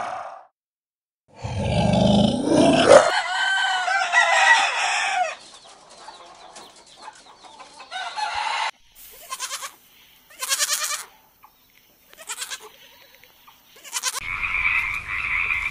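A run of animal sounds. First a loud call with a wavering, gliding pitch for a few seconds, then domestic hens clucking in short bursts, and near the end a steady, even croaking chorus begins.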